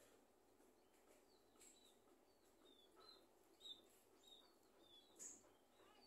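Faint, short high chirps of small birds, each a quick downward-sliding note, about two a second, with a few soft clicks among them.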